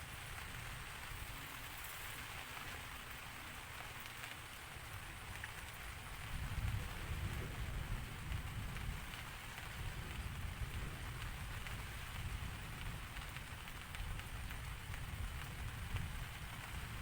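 Steady rain falling, a continuous even hiss, over a low rumble that grows louder about six seconds in.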